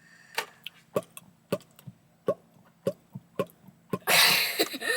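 Hollow mouth pops, about nine in a quick irregular series, each a short knock with a brief bending tone. Near the end comes a loud, breathy blowing noise lasting about a second.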